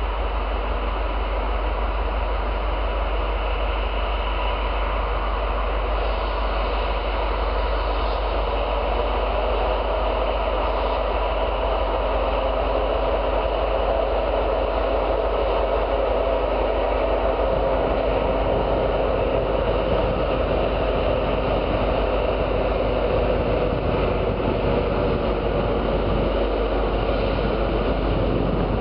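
CSX freight train of tank cars running by on the rails: a continuous rumble and rail noise that grows slightly louder.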